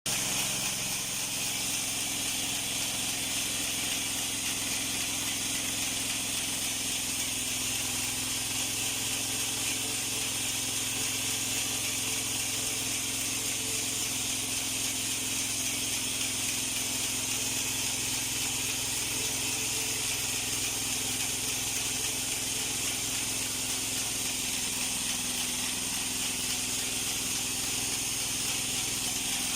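Portable bandsaw mill running steadily: an engine hum under a strong, even hiss from the machine, with the engine note shifting slightly a couple of times.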